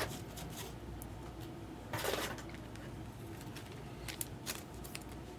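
Baseball trading cards being handled and sorted: a soft swish of card sliding on card about two seconds in, then a few light clicks, over a faint low hum.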